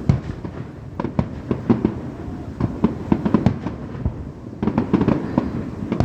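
Fireworks going off in a rapid, irregular barrage: many sharp bangs and pops, several a second, over a low rumble.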